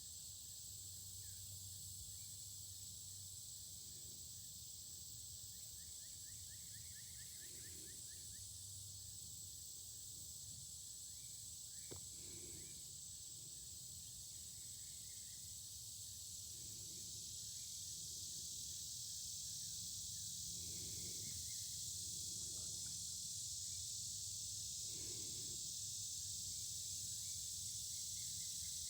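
Faint, steady hiss of a creek's running water with a high insect chorus over it and a few short chirps. It grows a little louder about halfway through.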